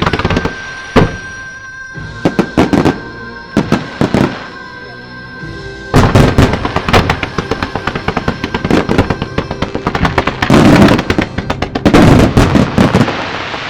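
Aerial fireworks shells bursting: first a scattered series of sharp bangs, then, from about six seconds in, a dense continuous volley of bangs and crackles, with music playing along.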